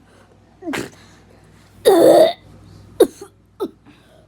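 A person coughing in several short bursts, the loudest about two seconds in, as if winded or struggling for breath.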